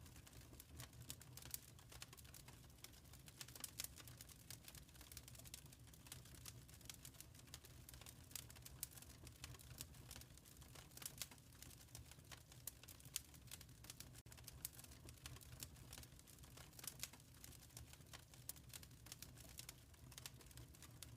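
Wood fire crackling in a fireplace, faint: frequent, irregular small pops and snaps over a low, steady rumble.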